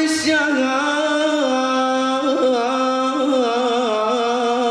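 A man singing one long drawn-out note of Arabic chanted verse, unaccompanied. The pitch holds steady, then wavers in small ornamental turns in the second half.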